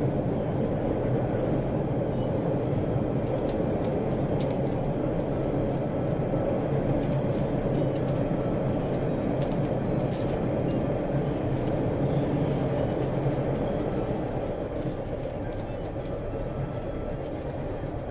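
Subway train running: a steady rumble with a few faint ticks, easing slightly in loudness in the last few seconds.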